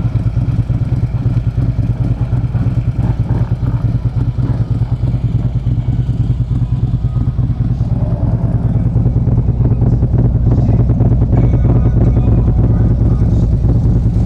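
2014 Harley-Davidson Ultra Limited's 103-cubic-inch V-twin running at idle through its exhaust, a steady low pulsing beat. It gets a little louder from about eight seconds in.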